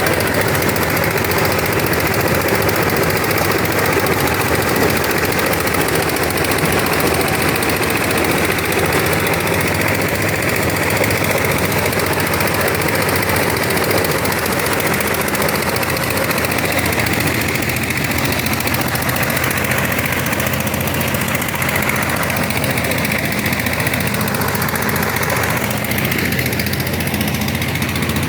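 Corn sheller machine running with a loud, dense rattle, built to strip kernels from ears with the husks still on.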